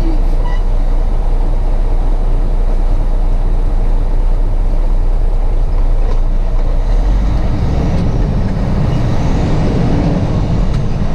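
Truck's diesel engine running, a steady low rumble that grows deeper and louder about seven seconds in.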